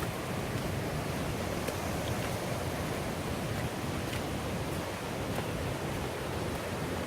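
Steady rushing of river water, an even hiss with a few faint ticks over it.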